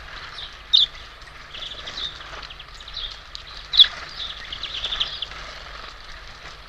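Small birds at a feeder chirping in short, rapid calls, with two louder sharp chirps about a second in and near four seconds.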